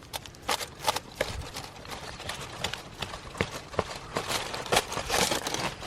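Knife slicing through cooked meat, with irregular sharp taps and knocks of the blade throughout.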